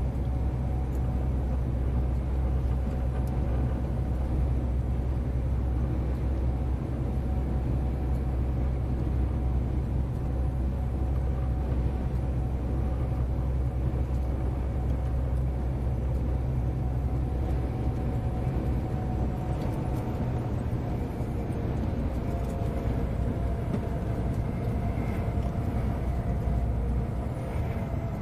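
Scania 143M 470's V8 diesel engine running steadily with a deep drone; about two-thirds of the way through, the lowest part of its note drops away as the engine changes speed or load.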